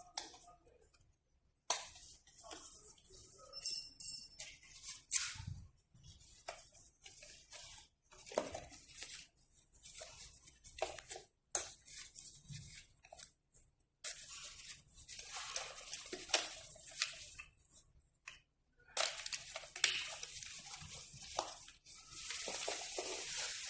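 Hands working on an electric scooter during a battery swap: irregular clicks, knocks and rustling, tearing-like handling noises, with longer stretches of scraping or rustling in the second half.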